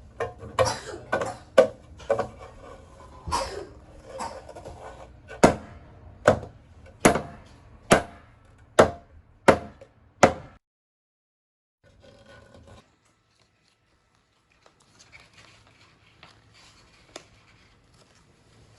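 A run of sharp knocks or taps, the later ones coming regularly a little under a second apart, about seven in a row, then stopping. After a short dropout only faint room sounds remain.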